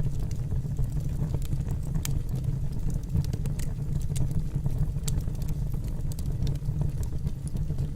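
Wood fire burning in a fireplace: a steady low rumble of flames with many small, sharp crackles of the burning logs scattered throughout.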